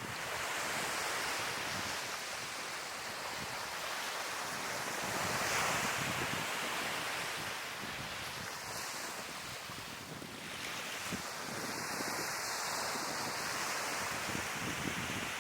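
Sea waves washing onto the shore, swelling about five seconds in, with wind buffeting the microphone.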